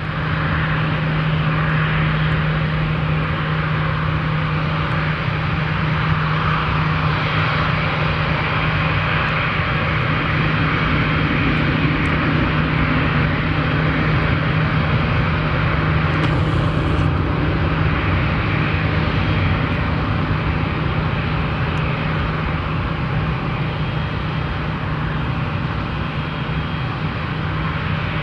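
Jet airliner engines running: a steady low hum under a rushing noise that swells about a third of the way through.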